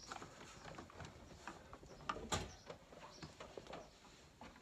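Scattered light clicks and knocks of stairlift parts being handled during reassembly, with one sharper knock about two seconds in.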